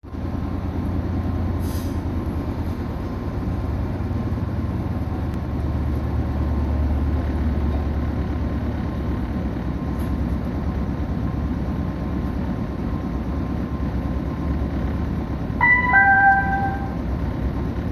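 Sanyo Line train running steadily, heard from aboard, with a low rumble. Near the end a two-note chime sounds, stepping down in pitch, the kind of chime that comes before an on-board announcement.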